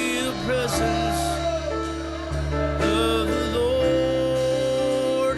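Live church music: a singer's voice over sustained instrumental chords and a bass line.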